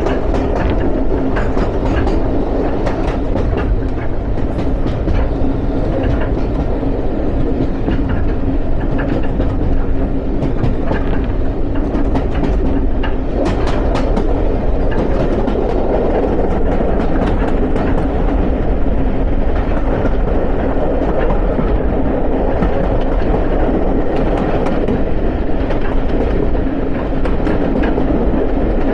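A railway carriage running along the track: a steady rumble with wheels clicking over rail joints now and then.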